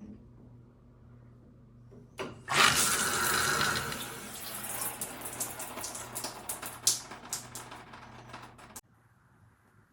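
Shower head spraying water in a steady loud rush that starts about two seconds in and cuts off abruptly near the end.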